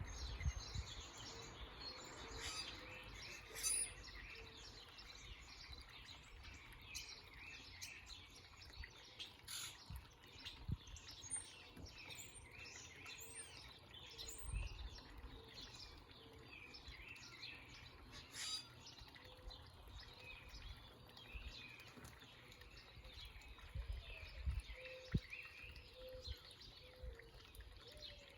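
Several small birds chirping and calling over and over, with runs of a low, evenly repeated note in the background and a faint steady hiss underneath.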